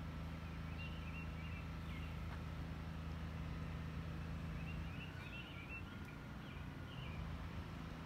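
Short, high bird chirps in a few brief clusters, over a low steady mechanical hum that drops away about five seconds in.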